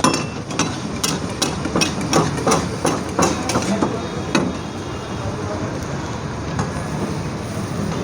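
A quick run of sharp metal-and-wood knocks, about three a second, from cooking tools being struck at a street-food stall, stopping about four seconds in, over a steady background din.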